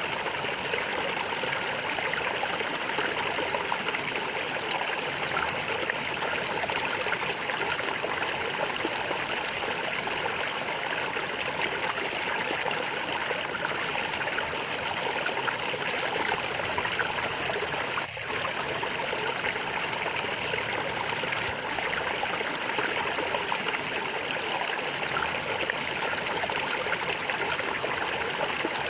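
Shallow stream of water gurgling and flowing steadily, an unbroken rushing trickle.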